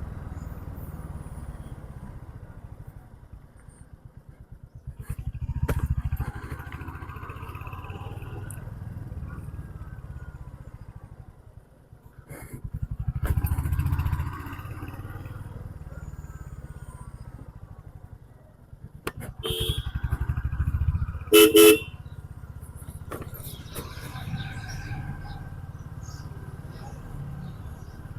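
Motorcycle riding on a road, with a steady low rumble of engine and wind that swells three times. About two-thirds of the way through, a vehicle horn honks briefly and loudly.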